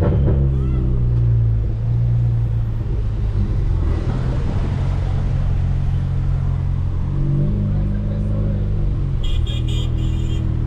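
Volkswagen Polo GTS's turbocharged 1.4 TSI four-cylinder, Stage 2 tuned with a sports exhaust, running steadily on the move: a low engine drone that shifts in pitch about a second in and again about two-thirds of the way through. A short burst of high chirps comes near the end.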